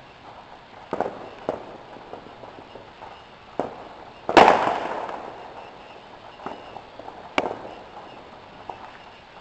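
Fireworks shells bursting: scattered sharp bangs about a second or two apart, with one much louder boom about four and a half seconds in that rumbles away over a second or so.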